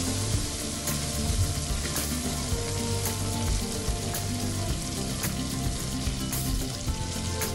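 Semolina and sugar syrup sizzling and bubbling in hot ghee in an aluminium pot while being stirred with a spatula, with light scrapes of the spatula against the pot, over soft background music.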